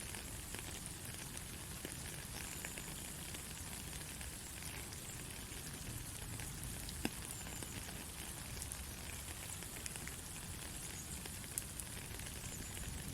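Soft steady rain with scattered drips and the odd sharper drop ticking on a surface.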